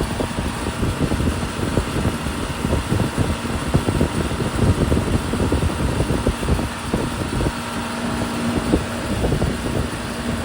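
Outdoor air-conditioner condenser unit running, its fan and compressor giving a steady hum with faint held tones over an uneven low rumble. The unit is back up and running after a burned-out run capacitor was replaced.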